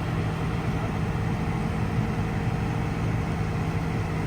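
Heavy engine running steadily at a constant speed, an even low hum with no revving or change.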